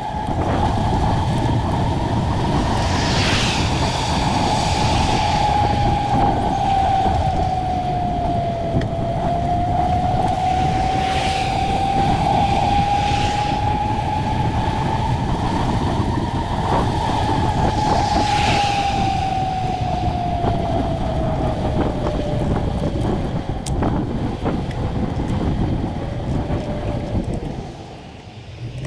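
Wind rushing over the microphone of a moving bicycle, with a steady whine that slowly rises and falls in pitch. Vehicles pass about three times.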